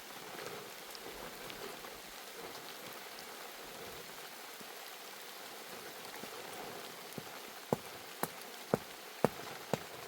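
Steady rain. Near the end, a run of sharp knocks, about two a second.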